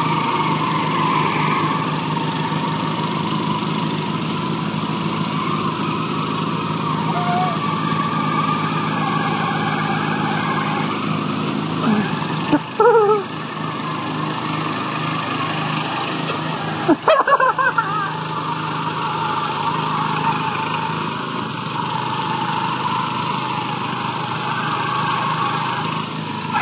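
Lawn tractor engines running steadily. Two short, loud shouts with wavering pitch break in about 13 and 17 seconds in.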